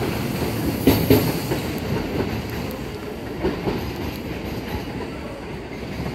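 Kintetsu Vista Car limited express pulling out, its wheels clacking over rail joints and points. The clatter is strongest about a second in, then settles into a steady rumble that slowly fades.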